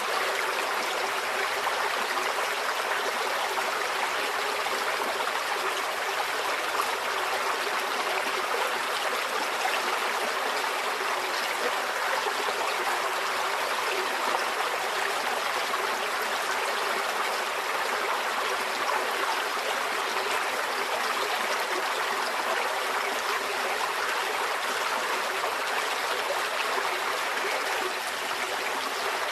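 Shallow forest stream flowing and babbling in a steady, even rush.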